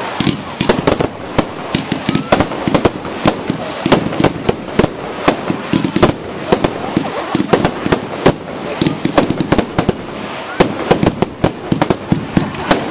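Fireworks going off in quick succession: many sharp bangs and crackles, several a second, with no let-up.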